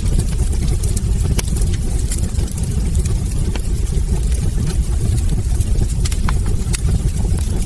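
Wood fire burning in a fireplace: a steady low rumble from the flames, with frequent, irregular sharp crackles and pops from the burning logs.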